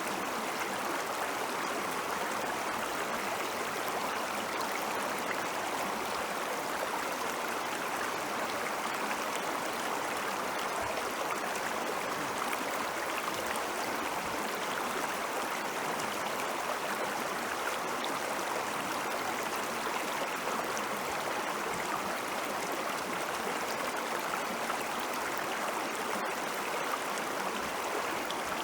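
Snowmelt stream water flowing over rocks, a steady rushing and gurgling with no pauses.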